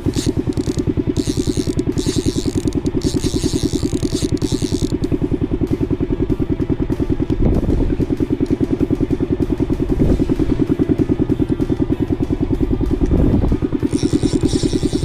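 Boat engine running at a steady pace, with an even putt-putt of about seven beats a second. Three dull thuds sound over it in the second half.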